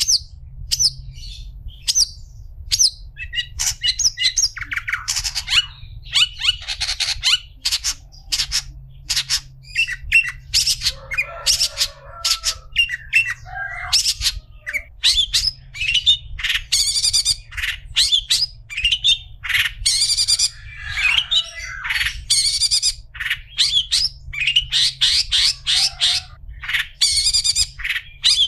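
Long-tailed shrike (cendet) singing: a rapid, unbroken string of sharp chirps and harsh chattering phrases, over a steady low hum.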